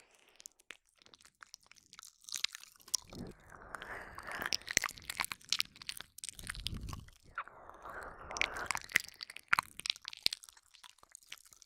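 Close-up wet mouth sounds for ASMR ear licking: many sharp tongue clicks and smacks, with two longer stretches of denser breathy, wet noise.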